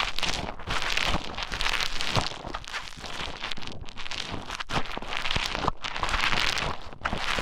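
Play Foam (beaded modelling foam) being mixed and squished right against the microphone: dense crackling and squelching that swells and eases about once a second.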